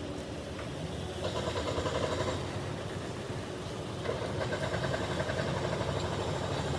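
Motor vehicle engine running with steady road rumble, heard from inside the vehicle, rising somewhat after about a second and again after four seconds.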